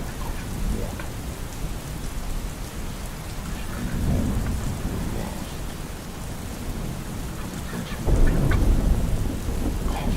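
Steady rain with rolling thunder, the thunder swelling twice and loudest about eight seconds in.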